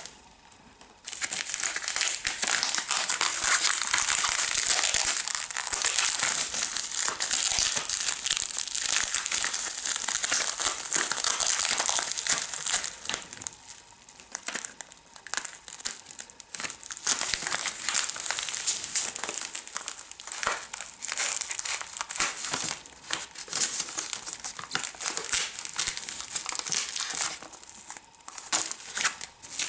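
Packaging being handled and unwrapped, crinkling and rustling continuously with a few brief lulls, starting about a second in.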